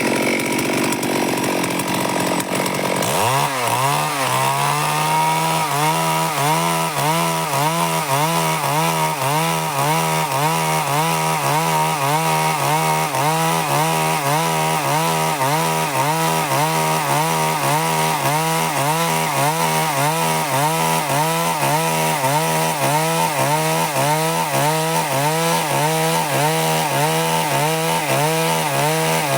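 Stihl MS 382 two-stroke chainsaw cutting wood. The engine picks up speed about 3 seconds in, then runs steadily under load with an even, rhythmic wavering.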